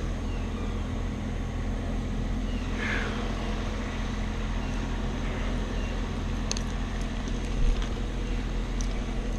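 An engine running steadily in the background, a low even hum, with a few faint clicks in the last few seconds.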